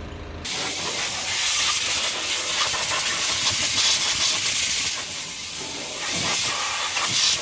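A loud, steady rushing hiss that starts suddenly about half a second in, replacing a low engine idle.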